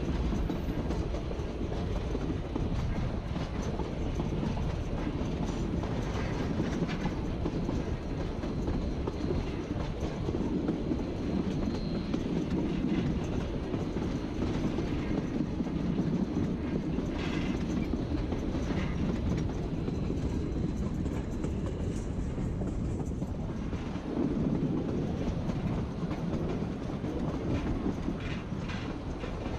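Ride noise heard from aboard a narrow-gauge passenger train: a steady rumble of the cars' wheels rolling on the rails, with scattered clicks and clatter over the track.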